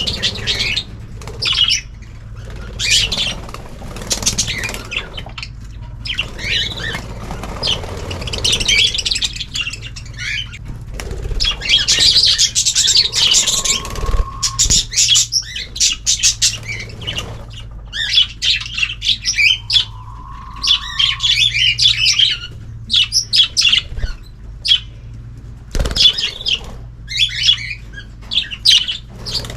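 A mixed aviary of cockatiels, budgies and canaries chirping and calling over one another without pause. Twice, about 13 and 20 seconds in, a lower steady note is held for a second or so.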